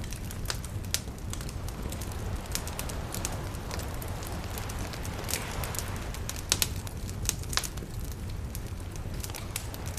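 Campfire crackling, with many sharp irregular pops over a steady low rumble.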